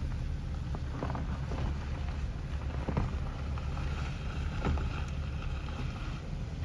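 Car moving slowly, a steady low road and engine rumble heard from inside the cabin, with wind noise on the microphone and a few faint knocks.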